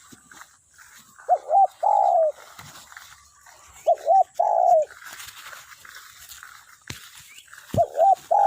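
Spotted dove cooing: three loud phrases about two and a half seconds apart. Each phrase is two short coos followed by a longer, falling coo, the last running on past the end.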